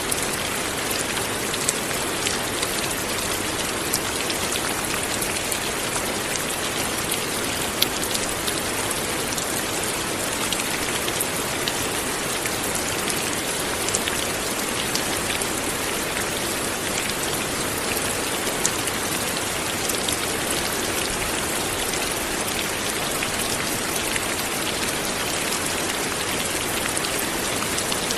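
Steady light rain falling, an even hiss with scattered close drop ticks throughout.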